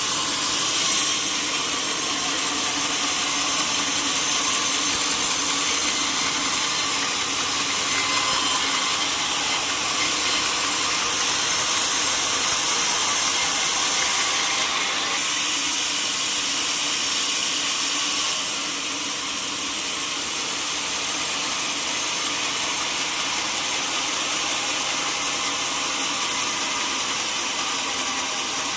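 Sawmill saw cutting through a teak log: a steady, loud hiss of blade through wood, easing slightly about two-thirds of the way through.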